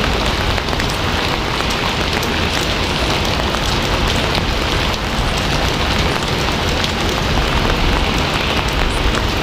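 Steady heavy rain falling on a surface, a dense even hiss with many small drop ticks mixed in.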